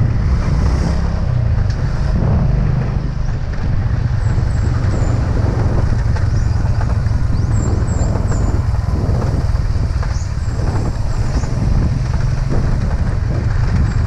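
Habal-habal motorcycle's engine running steadily while riding, with road noise.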